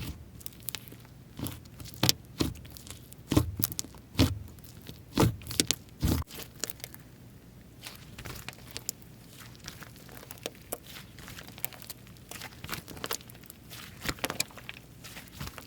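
Hands playing with slime: sticky clicking and crackling pops. The pops are loudest and thickest in the first six seconds, then turn softer and sparser.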